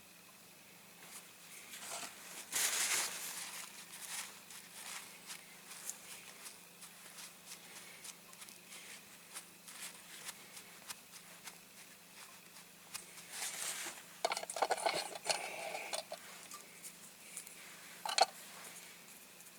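Light handling noises of small tools and a small model on a work surface: scattered clicks and taps with two brief rustling swells, a flurry of clicks about fourteen seconds in and one sharper click near the end.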